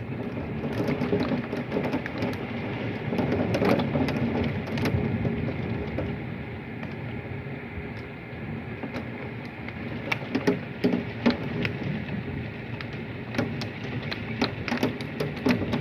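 Heavy thunderstorm rain with hailstones pelting a window and roof: a dense steady hiss under many irregular sharp ticks, which come thicker in the second half.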